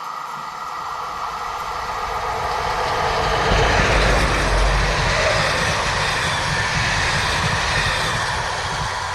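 A train passing close by, its rumble and wheel noise building up, loudest about four seconds in, then easing off slightly.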